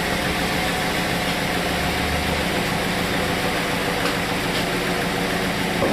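An engine running steadily at a constant speed, a dense even hum, in a sawmill setting where it most likely powers the mill.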